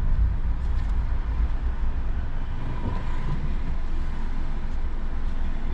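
Steady low rumble of a car's engine and tyres heard from inside the cabin while driving on a rain-soaked road.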